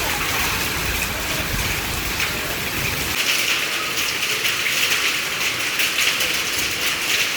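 Heavy monsoon rain pouring down as a steady hiss. A low rumble underneath stops about three seconds in, after which the rain sounds brighter and is full of sharp ticks of drops striking.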